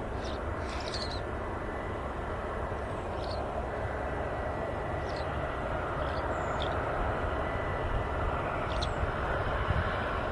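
Four-engined Boeing 747 on approach, a steady jet rumble with a thin high whine that fades out about halfway through; the noise swells slightly near the end.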